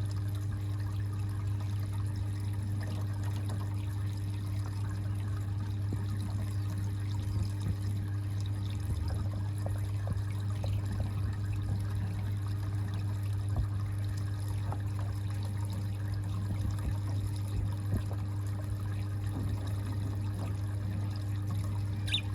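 Steady trickling, pouring water with a low, constant hum underneath.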